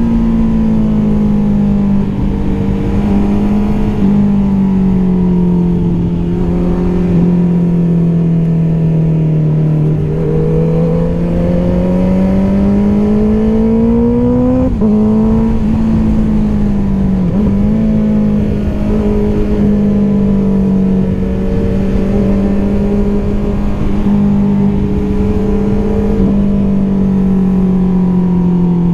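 Honda CBR650R's inline-four engine through an Akrapovič exhaust, running under way, its note rising and falling gently with the throttle. About 15 seconds in the pitch drops suddenly, as in a gear change, and dips briefly again a couple of seconds later.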